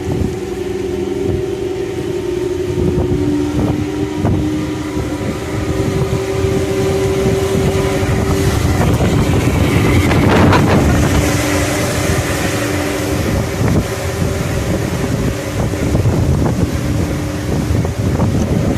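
Steady drone of a ferry's engines under wind buffeting the microphone, with a strong gust about ten seconds in.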